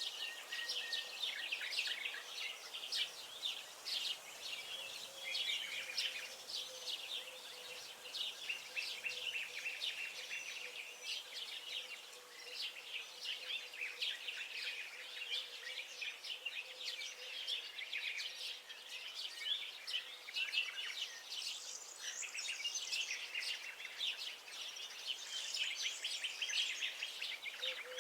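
Many songbirds singing and chirping together in a dense, continuous chorus of quick, high notes.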